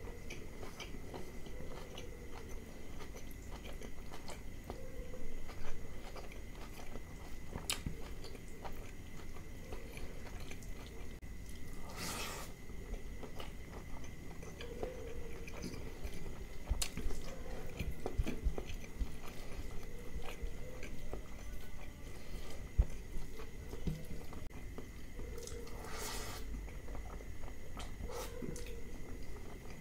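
A person chewing a mouthful of mutton liver curry and rice, eaten by hand, with close, wet mouth sounds of chewing and biting. Two short hisses stand out, about twelve seconds in and again near the end.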